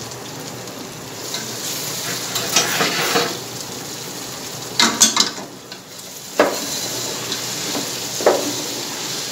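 Chopped okra sizzling as it fries in tomato masala in an aluminium pot, with a wooden spoon stirring and a few sharp knocks, the loudest about five seconds in.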